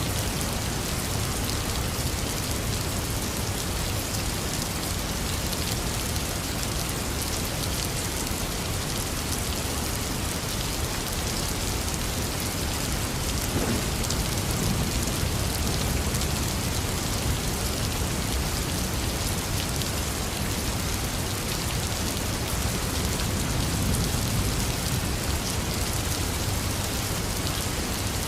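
Heavy rain falling steadily, a dense hiss of drops hitting surfaces, with low rumbles of thunder swelling now and then, about halfway through and again near the end.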